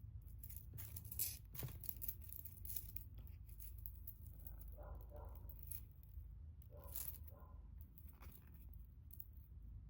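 A tangle of gunmetal-coloured jewelry chains being handled and sorted by hand, with scattered light clicks and short rustles.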